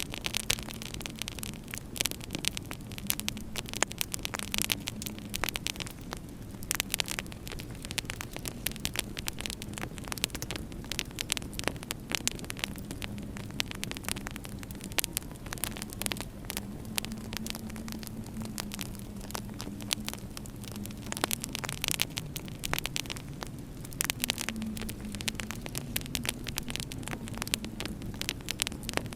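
Fireplace fire crackling with frequent sharp pops, over a low wavering howl of winter wind.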